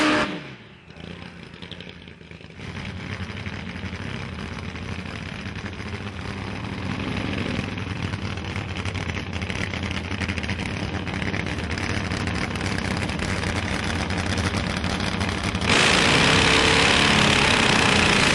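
Drag-racing motorcycle engines. A falling engine note fades away in the first second, then an engine idles steadily and slowly grows louder. About two and a half seconds before the end it jumps to a loud high-revving burnout with the rear tyre spinning.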